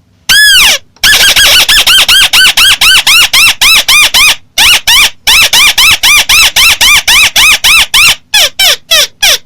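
Loud, amplified call of the bird known in Vietnamese as chim mắt xéo. It gives one long arched note, then a rapid run of short notes that each rise and fall in pitch, about six a second, broken by a couple of brief pauses and ending in a few quicker notes.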